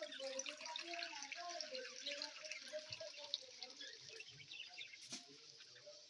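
Budgerigar colony chattering: many quick overlapping chirps and clicks, with lower warbling in the first half and a single sharp click about five seconds in.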